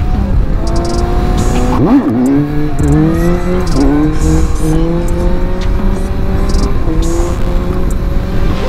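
Suzuki GSX-S 750's inline four-cylinder engine pulling away under throttle. The revs dip sharply and jump back about two seconds in, then the note climbs in steps, dropping briefly at each upshift. Wind rumbles on the microphone.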